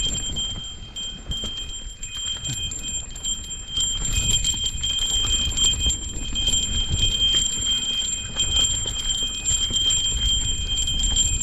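A steady, high-pitched drone of insects calling, unbroken, over an uneven low rumble of wind and movement on the microphone.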